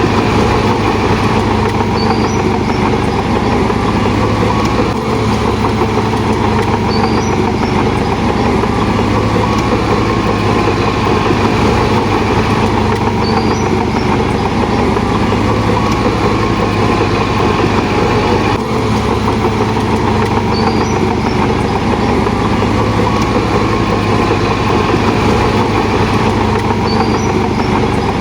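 Heavy diesel construction machinery running steadily, its engine a constant low drone, with a faint high chirp about every six seconds.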